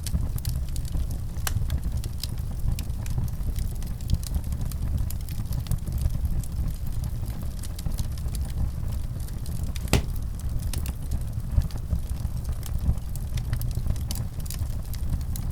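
Wood fire crackling in a fireplace: a steady low rumble of the flames with scattered small pops throughout, and one sharper pop about ten seconds in.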